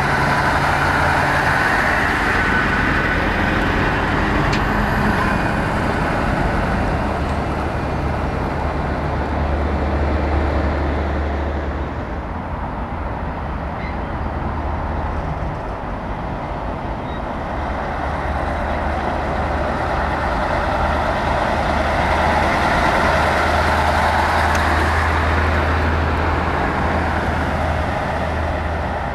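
Heavy diesel trucks driving past close by, with a steady low engine drone. The engine and road noise swell near the start, ease off in the middle, and build again in the second half.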